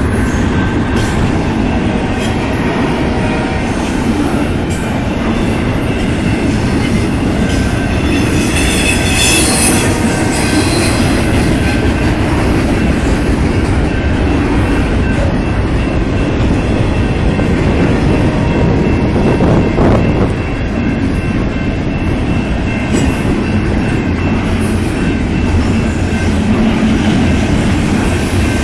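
Intermodal freight train rolling past at speed: a loud, steady rumble of steel wheels on rail with clicking over the rail joints, and a high wheel squeal around nine to ten seconds in.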